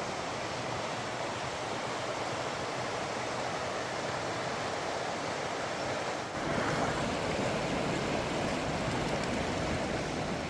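Wind blowing steadily over the microphone, getting louder and fuller about six seconds in.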